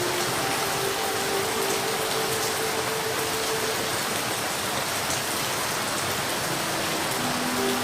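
Steady rain falling, an even hiss with no let-up, with a few faint held tones underneath.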